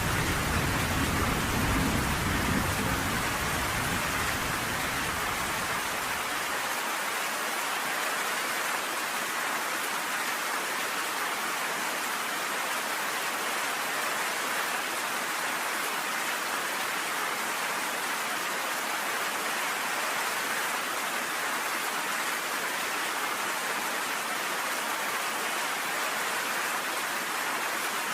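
Steady rain falling, with a low thunder rumble dying away over the first few seconds.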